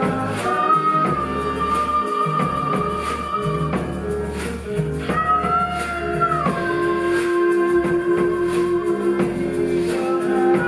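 Live small-ensemble music: long held melody notes that slide from one pitch to the next over a low sustained bass and steadily plucked strings.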